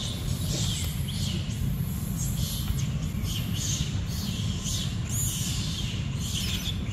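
Birds chirping: short high chirps repeating about two a second, over a steady low rumble.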